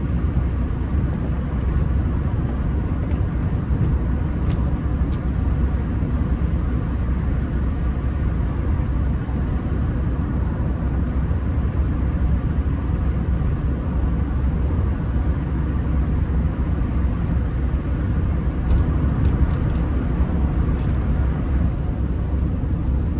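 Rolls-Royce Silver Spirit III's 6.75-litre V8 running, heard from inside the cabin as a steady low rumble, with a few faint clicks.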